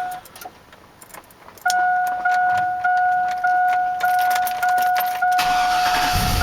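With the 2000 Silverado's 5.3 V8 stalled, keys jangle and click in the ignition. The truck's warning chime then sounds over and over, about every half second. Near the end the engine cranks and catches, running rough on a cold start that the owner blames on a bad fuel pump.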